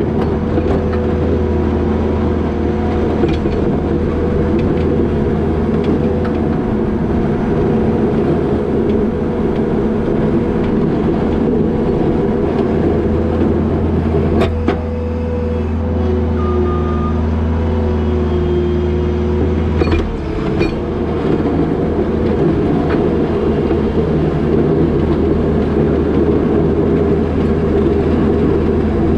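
New Holland L220 skid steer's diesel engine running steadily while plowing snow, its note shifting slightly around the middle and again about two-thirds through. A few sharp knocks stand out around those points.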